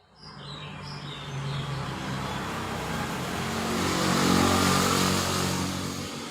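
A motor vehicle passing by: engine and road noise swell to a peak about four seconds in, then fade.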